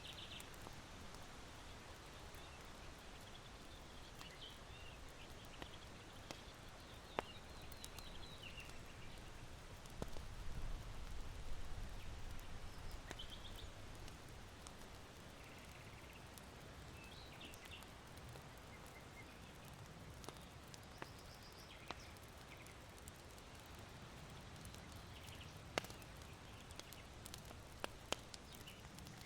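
Faint ambience of a charcoal fire in an irori hearth, with sparse sharp pops, and small birds chirping now and then. A low gust of wind swells about a third of the way through and fades over a few seconds.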